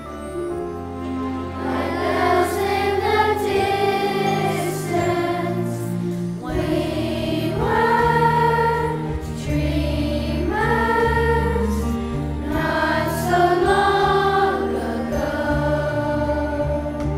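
School chorus singing a Christmas concert piece in sustained sung phrases, with a brief break between phrases about six seconds in.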